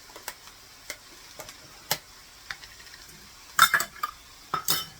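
A spoon stirring chicken and vegetables in a skillet on the stove, with scattered light clicks against the pan and two louder scraping clatters near the end, over a faint sizzle.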